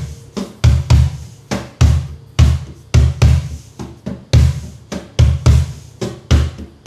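Cajon played by hand in a repeating rhythm of deep bass strokes and lighter, brighter tip strokes, about three to four strokes a second.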